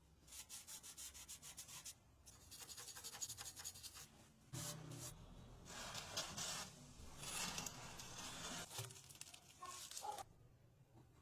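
Rapid back-and-forth abrasive rubbing on a hard surface, like hand sanding or scrubbing an engine part, at several strokes a second in short runs with brief pauses between them.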